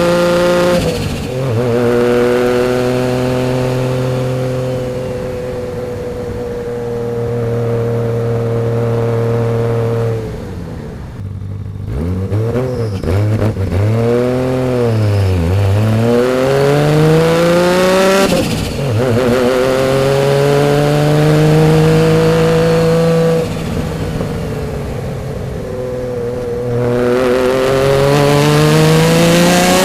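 1991 Nissan Skyline GT-R's built RB26 twin-cam straight-six with a single Garrett GT3076 turbo, running hard. Its pitch is held steady for several seconds at a time, drops off between stretches, swings quickly up and down a few times in the middle, and climbs again in rising sweeps near the end.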